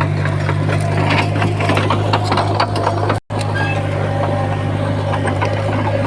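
Komatsu bulldozer's diesel engine running steadily under load, with rapid clanking and knocking from its steel tracks and blade. The sound cuts out completely for a moment about three seconds in.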